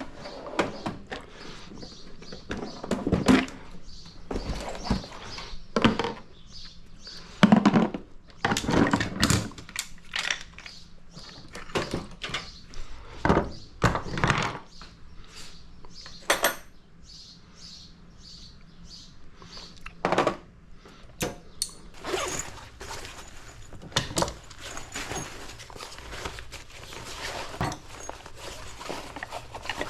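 Irregular thuds, knocks and clatter of objects being handled and set down, a dozen or more sharp hits spread through the stretch.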